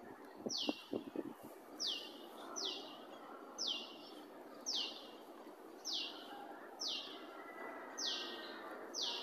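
A bird repeating one short, high, downward-sweeping call about once a second, each call starting with a tiny click.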